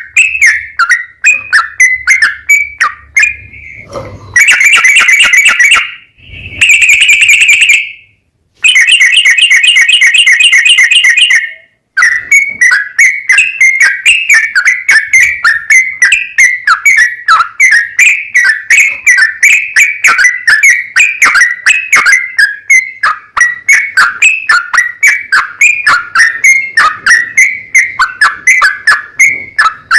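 Yellow-vented bulbul (trucukan) singing a long run of quick chattering notes, about four a second, broken by three dense rapid trills in the first half.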